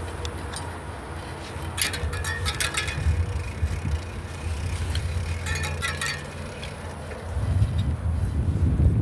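Bicycle riding along: a steady low tyre-and-road rumble, with two short bursts of rattling clicks about two seconds and five and a half seconds in. Wind noise on the microphone grows louder near the end.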